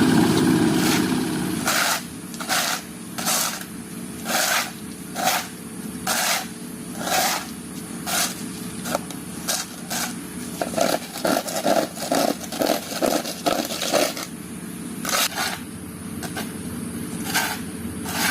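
Repeated scraping strokes of a hand tool working wet concrete, roughly one a second and quickening in a fast run in the second half. An engine hums steadily underneath, louder at the start and dropping back about two seconds in.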